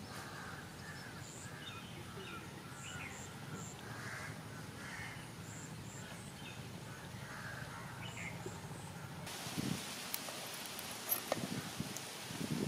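Birds calling repeatedly in short calls over a steady outdoor background noise, with a few light clicks near the end.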